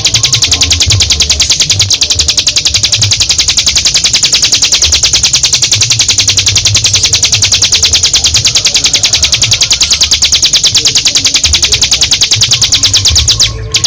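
Ciblek gunung (hill prinia) singing its long 'ngebren' song: a continuous, very fast high-pitched rattling trill, broken briefly near the end, over a low rumble.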